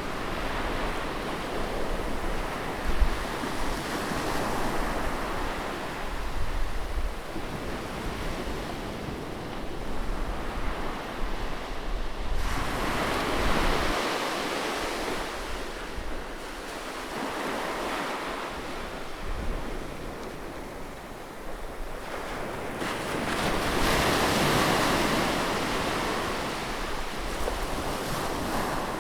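Ocean surf breaking on a beach, a steady wash of waves that swells and ebbs, with a bigger wave rolling in about halfway and another past three-quarters through. Wind buffets the microphone with a low rumble.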